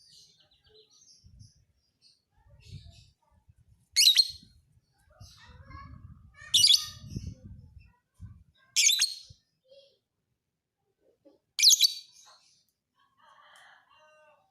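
Lovebird giving four loud, sharp bursts of shrill chirping a couple of seconds apart, with softer twitters between them, in the harsh 'fighter' song style. A faint low rumble runs under the middle bursts.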